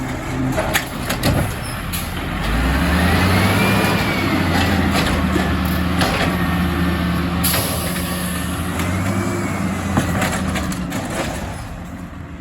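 Refuse truck's diesel engine revving up about two and a half seconds in and holding high, as for working the lift arm, with knocks and clatter and a brief burst of air hiss.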